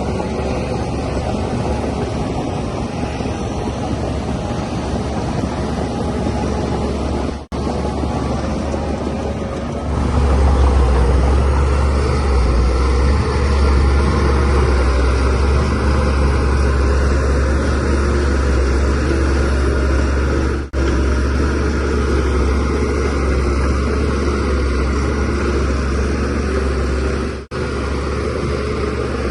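DH17C3PRO bulldozer's diesel engine running steadily, growing louder about ten seconds in and easing back about twenty seconds in. The sound breaks off for an instant three times.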